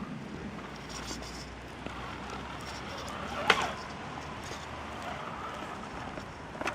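A single sharp knock about halfway through, over a steady background hiss.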